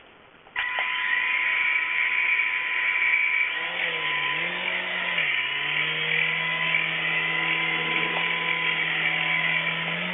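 Small electric motors of a toy RC helicopter whining as its rotors spin, starting suddenly about half a second in. A few seconds later a lower hum joins, wavering in pitch before holding steady.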